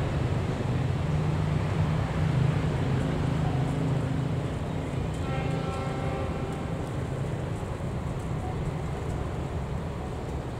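A passenger train running away down the track: a steady low rumble of its running gear and engine that slowly fades as it recedes.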